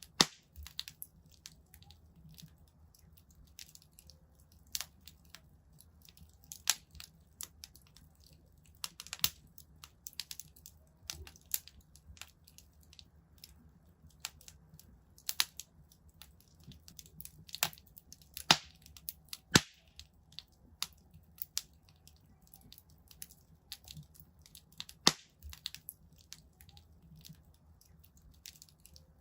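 Wood fire crackling in a fireplace: irregular sharp pops and snaps of burning logs, a few louder ones standing out, over a faint low hum.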